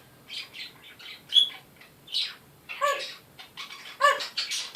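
Pet parrot giving a string of short chirps and squawks, about a dozen separate calls, two of them with a clearer pitched tone about three and four seconds in.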